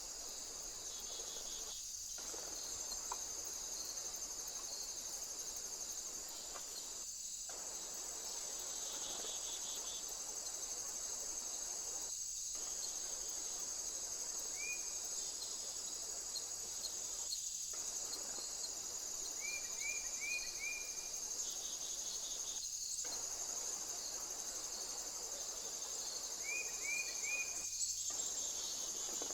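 Steady high-pitched chorus of insects, crickets or similar, running throughout. Over it a bird gives short rising chirps: once about halfway through, then in quick runs of three or four near the end.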